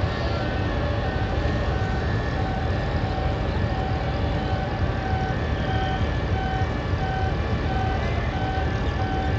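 ICF passenger coaches of an express train rolling past along a platform: a steady rumble of wheels on rail, with faint short tones that come and go.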